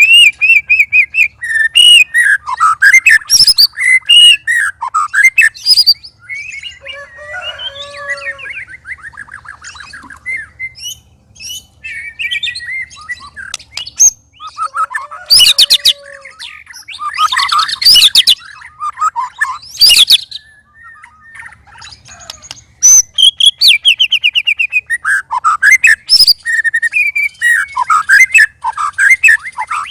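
White-rumped shama (murai batu) in full, energetic song: loud runs of quick whistled notes, slurred glides and rattling phrases, varied from phrase to phrase. The song goes softer and sparser about six seconds in, then comes back loud about fifteen seconds in.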